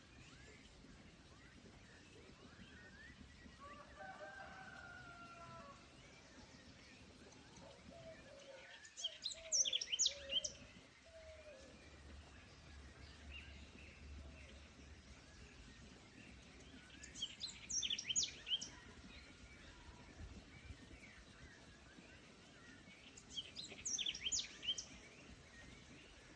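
Bird song in a forest: a bird sings three short bursts of rapid high notes, roughly seven seconds apart, with lower wavering calls before and under the first burst, over a faint steady background.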